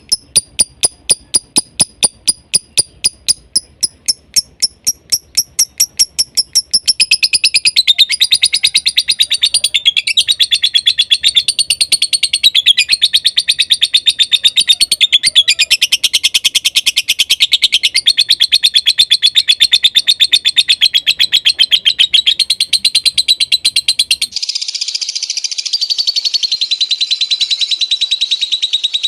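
Lovebird calling: sharp, high, evenly repeated chips, about three a second, give way after about seven seconds to a dense, continuous fast chatter. Near the end the background changes abruptly where another stretch of chatter is spliced in.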